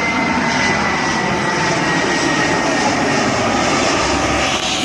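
Jet airliner's engines during landing, a loud steady rush with thin whining tones that slowly fall in pitch.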